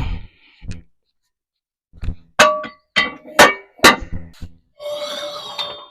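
Metal weight plates being taken off a bar: several sharp clanks with ringing between about two and four seconds in, then a longer scraping sound near the end.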